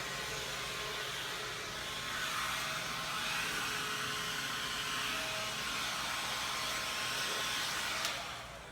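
Electric leaf blower running steadily with a whooshing air noise, falling away near the end.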